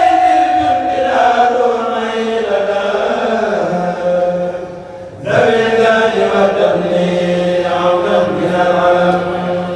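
A kourel group chanting a khassida together in long, held notes. The first phrase dies away about five seconds in, and a new phrase starts sharply and carries on with a low sustained note under it.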